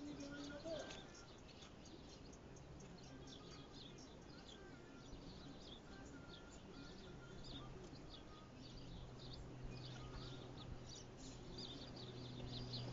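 Small birds chirping repeatedly, many short high calls. A low steady hum comes in a couple of seconds in.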